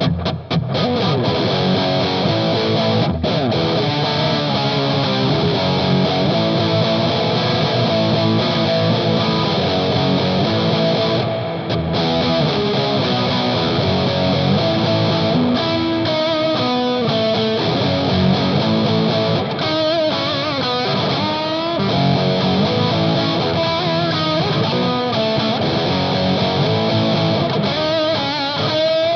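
Electric guitar played continuously through an EarthQuaker Devices Palisades overdrive pedal, giving a loud, driven tone.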